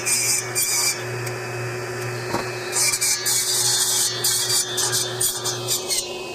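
Electric power saw running on lumber, its pitch falling steadily over the last few seconds as the motor winds down.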